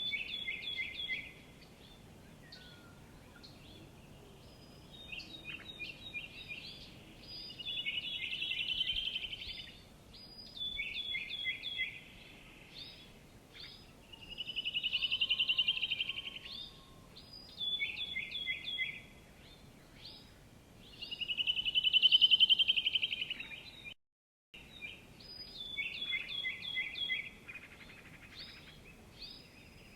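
Songbird singing: short series of quick, clear notes alternate with a buzzy trill that swells louder over a couple of seconds, repeating about every six seconds over a faint steady background. The sound cuts out for a moment about 24 seconds in.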